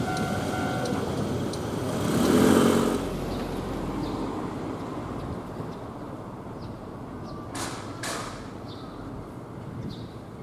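An electric commuter train's running noise fading as it clears a level crossing, with a louder swell about two seconds in. The crossing alarm's steady two-tone ringing stops about a second in.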